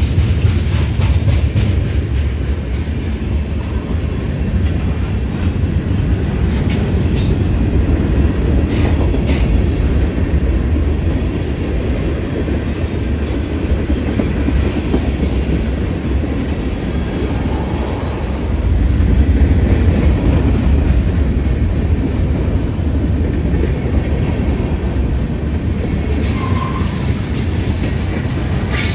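Union Pacific freight train rolling past at close range, a steady loud rumble of steel wheels on the rails.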